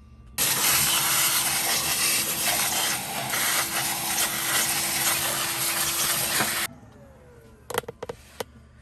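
A motor-driven machine runs steadily for about six seconds, a loud rushing noise with a steady hum through it, starting and cutting off abruptly; a few light clicks follow near the end.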